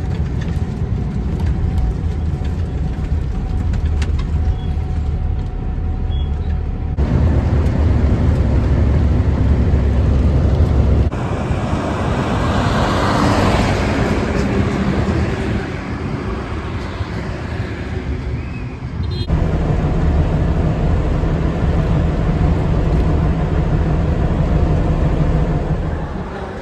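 Road vehicle noise: engine and tyre rumble of a bus ride and passing traffic, changing abruptly a few times as the footage cuts between shots.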